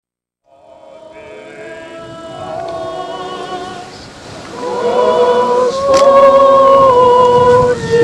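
A group of voices singing slow, long-held notes. It starts quietly and swells, becoming full and loud about five seconds in.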